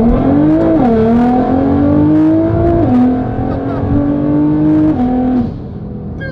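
Nissan GT-R R35's twin-turbo V6 accelerating hard, the engine note climbing and dropping with quick upshifts about a second in, about three seconds in and about five seconds in, then easing off.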